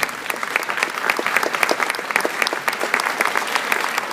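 Audience applauding: a steady crackle of many hands clapping.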